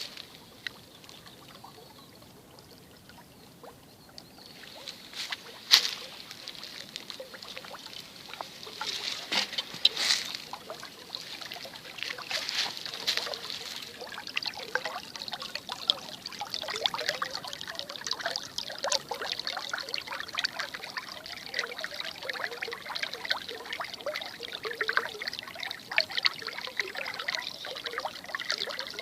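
Spring brook trickling, quiet for the first few seconds, then fuller from about five seconds in. A few sharp splashes stand out, and the water grows busier toward the end.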